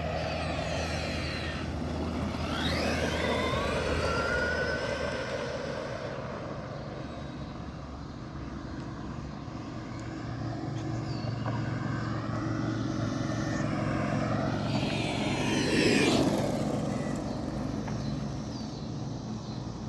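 Road vehicles passing with a steady low engine hum, mixed with the whine of an electric RC monster truck's motor rising and falling in pitch as it speeds up and slows. The loudest pass comes about sixteen seconds in.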